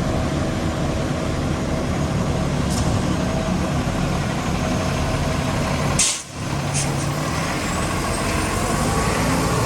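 Concrete mixer truck's diesel engine running steadily. Short hisses of air come about three seconds in and again just before seven seconds; the sharpest, an air-brake release, comes at about six seconds, followed by a brief drop in sound.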